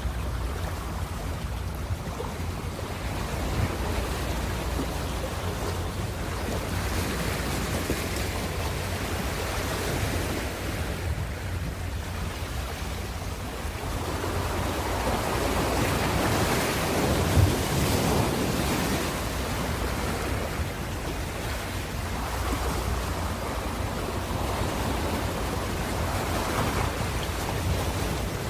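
Ocean waves breaking and washing in, rising and falling in slow surges, with the biggest surge a little past the middle. A steady low rumble runs underneath.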